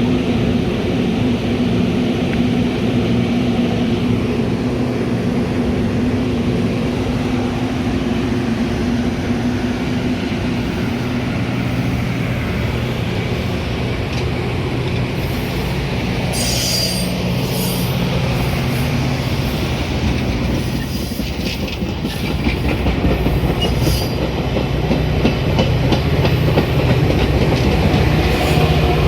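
Metra commuter train running on the rails: a steady rumble of wheels and running gear, with a few sharp high-pitched wheel squeals and clicks about halfway through.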